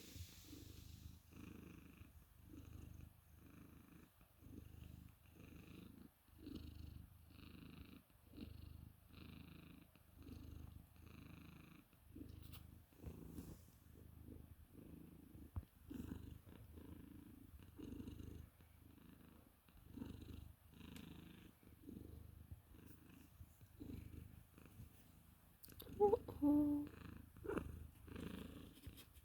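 Cat purring faintly in an even rhythm of breaths, about one and a half pulses a second. A brief, louder pitched sound comes near the end.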